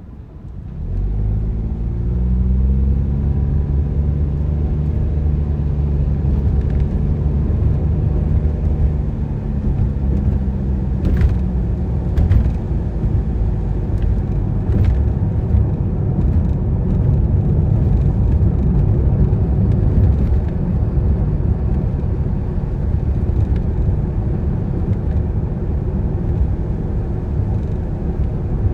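A car pulls away and accelerates. The engine note rises for a couple of seconds, then holds and fades into a steady low rumble of road and tyre noise. A few light knocks come around the middle.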